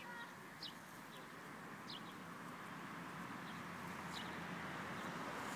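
A small bird chirping: short, high, downward-sliding notes, irregular and roughly one a second, over a steady outdoor hiss.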